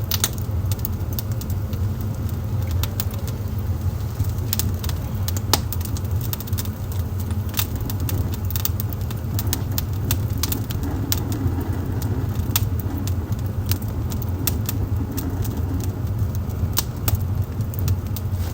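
Wood fire burning in a fireplace, crackling with frequent sharp pops at irregular intervals over a steady low rumble.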